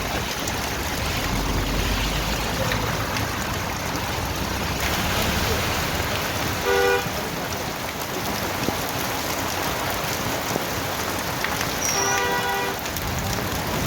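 Steady rain with water running in a drain. A vehicle horn honks twice: a short toot about seven seconds in, and a longer one near the end.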